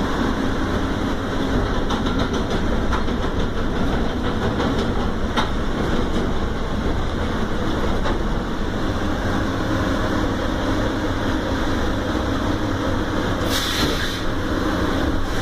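Lumber-mill chop saw machinery running steadily, with a few light clicks in the first half and a short hiss near the end.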